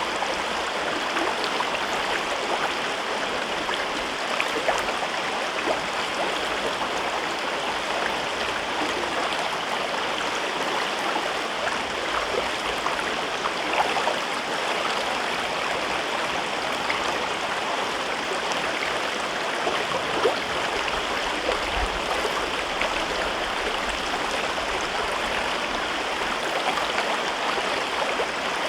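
A river stream running over rocks in a gorge: a steady rushing and babbling of water with small splashes scattered through it.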